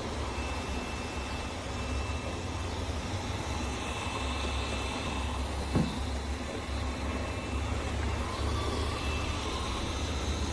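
Eureka E20 Plus robot vacuum running, a steady motor-and-suction hum with a faint thin high whine, and one short knock a little past halfway through.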